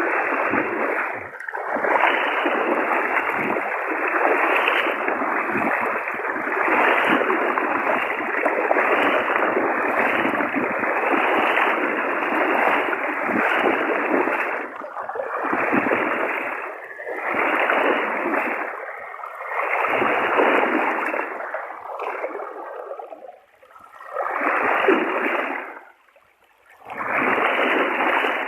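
Floodwater rushing and splashing loudly. It is a steady rush at first, then breaks into separate surges a second or two long in the second half.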